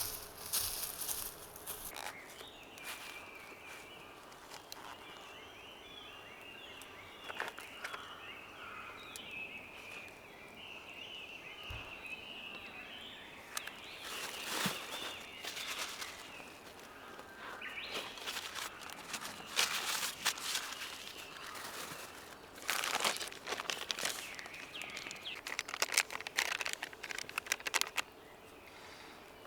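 Small birds twittering in woodland, with bursts of rustling and crinkling from handling things close by, loudest over the second half.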